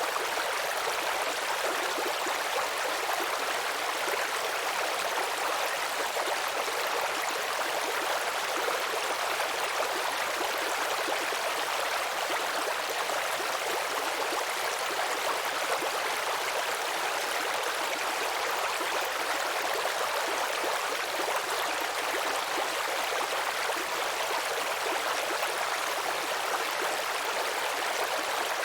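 A shallow babbling brook, water running and trickling over stones in a steady, even rush with no lulls or surges.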